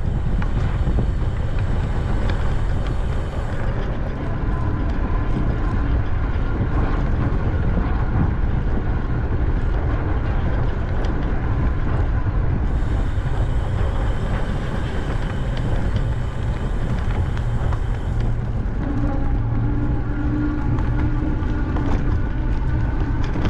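Wind rushing over the microphone of a camera riding on a moving bicycle: a steady low rumble with road and tyre noise.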